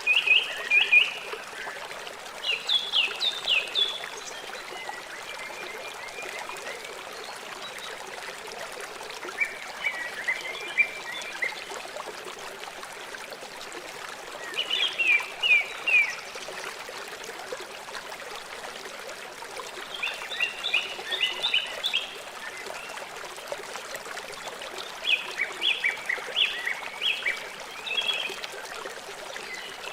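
River water flowing steadily, with a bird singing short bursts of quick, high chirps every few seconds; the chirps are the loudest sounds.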